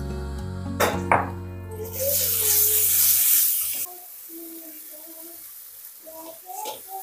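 Pounded garlic, shallots and ginger going into hot oil in a wok, sizzling loudly for about two seconds from two seconds in, then dropping away sharply. Two sharp knocks come just before the sizzle, over background music.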